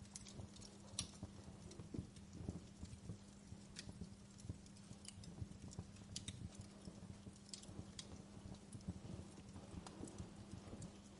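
Wood fire crackling in a fireplace: faint, irregular pops and snaps over a low rumble, with a steady low hum underneath.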